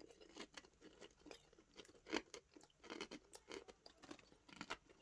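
A person chewing a mouthful of thick Walkers Max Double Crunch crisps: faint, irregular crunching and crackling.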